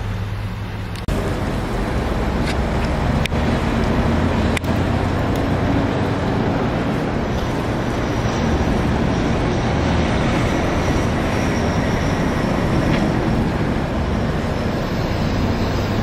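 Automated drive-through truck wash running: a steady machine hum, joined about a second in by a loud, steady rushing noise from the wash equipment.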